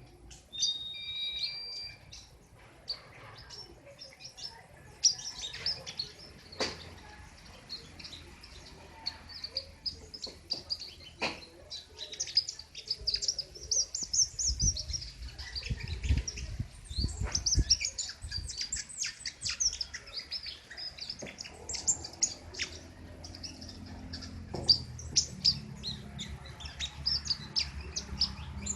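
King konin songbird singing a long, unbroken run of rapid, sharp, high notes: quick trills and hard slashing calls (besetan) chained together.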